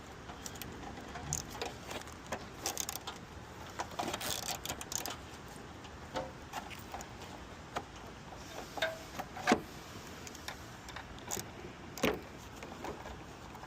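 Scattered metallic clicks, knocks and rattles from working at the crumpled hood of a crashed 2007 Honda Accord, which is stuck and hard to open.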